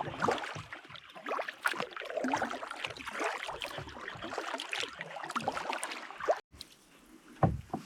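Canoe paddle working the water: a busy run of splashing, dripping and gurgling. It cuts off abruptly about six and a half seconds in, and a single low thump follows near the end.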